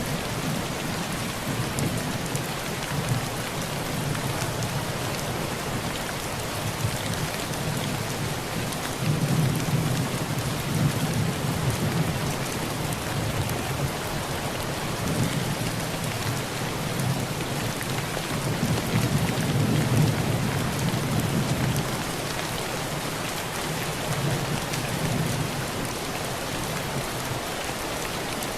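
Heavy rain pelting a tin roof in an even, unbroken hiss. Low thunder rumbles roll in twice, about a third of the way through and again past the middle.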